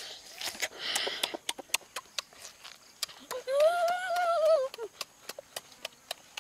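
Close-up chewing and lip-smacking, many small wet clicks, from a child eating cooked chicken, with a short breathy slurp about a second in. In the middle comes a hummed 'mmm' that rises and then falls over about a second and a half.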